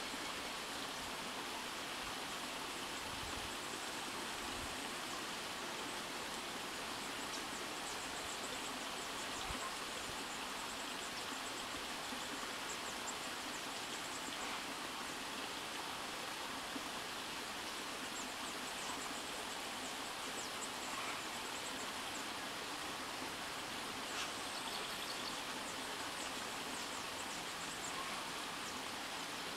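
Steady outdoor rushing noise, with faint, high bird chirps now and then, clustered about a third of the way in and again near the end.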